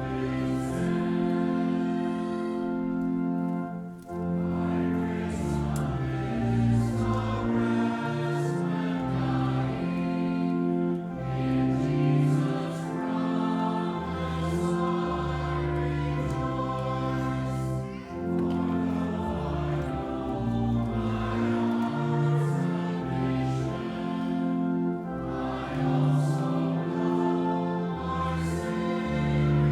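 Slow sacred choral music: voices singing sustained chords that change every second or so.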